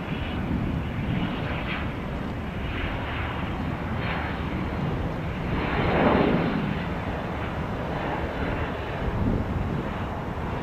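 Jet airliner's engines as the plane passes the airport, a steady rushing hum that swells to its loudest about six seconds in and then fades.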